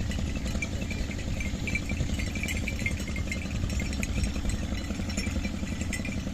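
An engine idling steadily, with faint high chirps above it.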